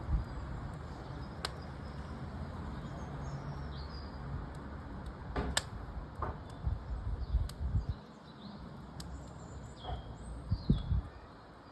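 Wood fire in a fireplace crackling over a low rumble, with several sharp pops. Small birds chirp faintly.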